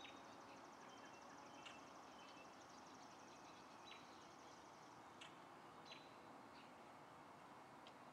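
Faint outdoor ambience: short bird chirps every second or so over a steady low hiss, with a fast, even, high-pitched insect-like trill that stops about halfway through.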